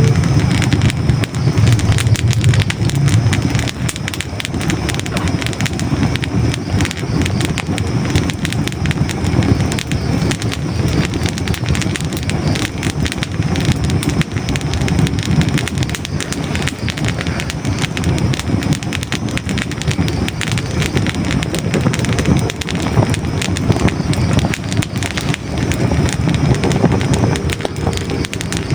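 Hardwood logs burning in a fireplace: a steady low rumble of flames with dense, crisp crackling and frequent small pops.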